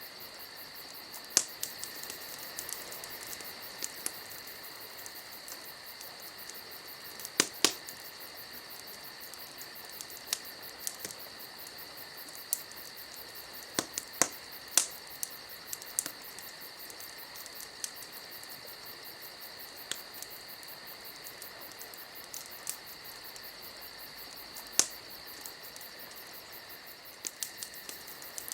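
Campfire crackling, with irregular sharp pops over a steady high-pitched whine.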